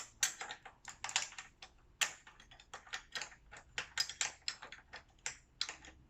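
Quick irregular metal clicks and taps, several a second, as a wrench and channel-lock pliers work the nut on a caster wheel's threaded stem tight.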